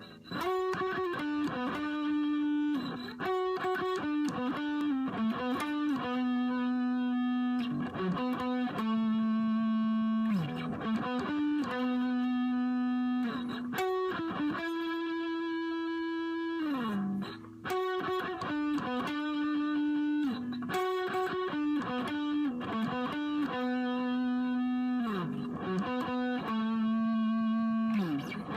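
Electric guitar playing a song's vocal melody as single notes, mostly long held notes with a few sliding pitch drops between phrases.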